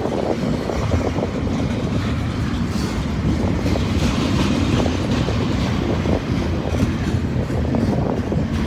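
Freight train cars rolling past on the rails: a steady rumble with the wheels clicking over the rail joints.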